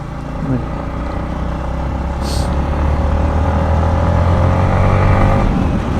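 Yamaha MT-15's single-cylinder engine pulling under throttle, its revs climbing slowly and getting louder, over a low rumble of wind and road. A brief hiss comes about two seconds in.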